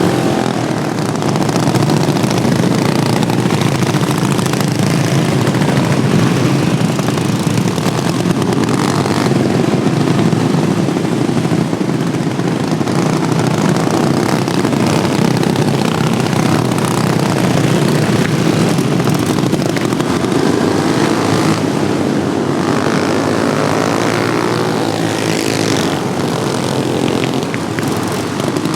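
Modified Wheel Horse racing lawnmower engines running hard at high revs, a steady loud mass of small-engine noise with pitches rising and falling as the machines accelerate and pass.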